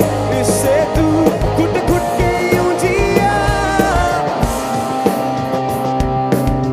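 Live rock band playing: drum kit hits, a steady bass and a high melodic line that bends in pitch, from lead guitar or a voice.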